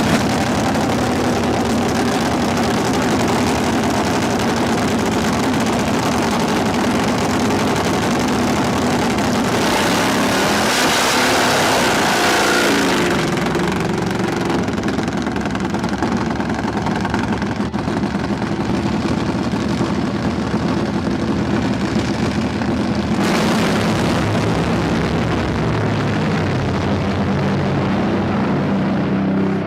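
Dirt drag racing motorcycle engine running steadily. About ten seconds in, a louder stretch of rushing noise lasts a few seconds.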